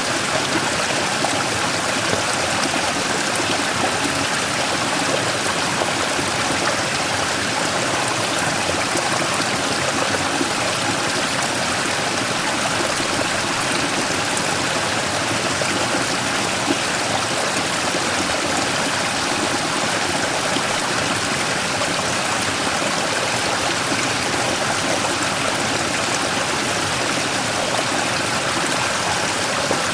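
Mountain stream running steadily over a large rock, a constant splashing, gurgling rush of water.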